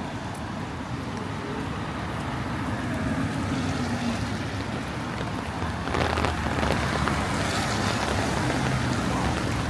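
Rainy city street ambience: a steady wash of rain and wet-road noise that grows louder about six seconds in.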